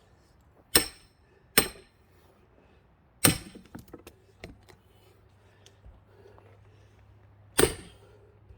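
Sledgehammer striking the back of an axe wedged in a thick pine log: four sharp metal-on-metal clangs with a brief ring. The first two come close together, the third about two seconds later with a few small clinks after it, and the fourth near the end. The log resists splitting and the axe bounces.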